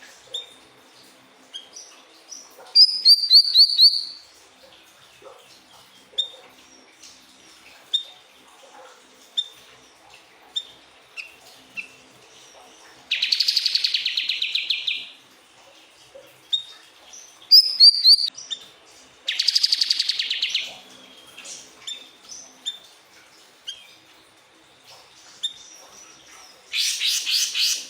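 Siri-siri bird singing: short single chirps about once every second or so, broken by three loud rapid trills of about two seconds each and two short runs of quick, high falling notes.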